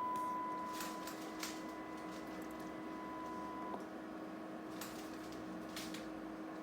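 Steady high-pitched test tone from radio equipment, weakening about a second in and cutting off just past the halfway point, over a steady lower hum with a few faint clicks.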